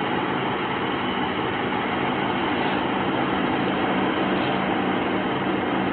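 A vehicle engine idling steadily close by, a constant hum under an even rush of noise.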